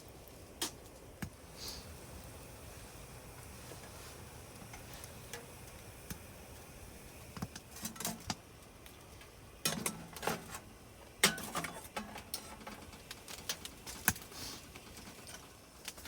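Cooking utensils and pans clinking and knocking on a tent stove: scattered light clicks, with a few louder clusters of knocks about eight to eleven seconds in.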